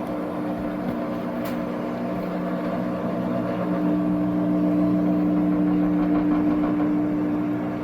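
Washing machine running its spin, the motor giving a steady hum that grows louder about four seconds in. A brief click about a second and a half in.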